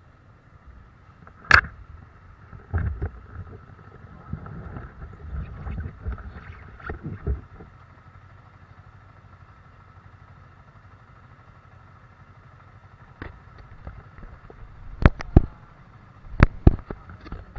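A vehicle running, with a low rumble and a faint steady hum. Several sharp knocks cut through it: a loud one about a second and a half in, a few more after it, and a cluster of knocks near the end.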